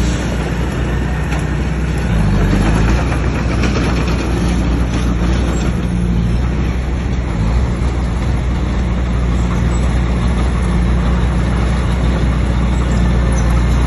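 Bulldozer's diesel engine running steadily under load, with a brief dip and rise in engine pitch about two seconds in.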